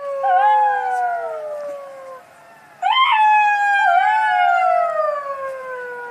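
Jackals howling in chorus: two long howls with several voices overlapping, each sliding slowly down in pitch. The second starts about three seconds in with a sharp upward yelp.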